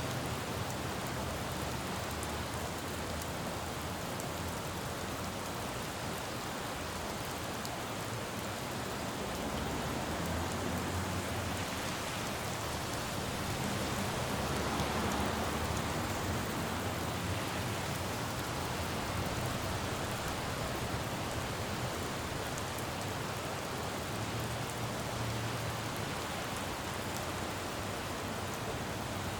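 Steady rain falling on a road, a dense even hiss, with the low rumble of passing traffic swelling briefly around the middle.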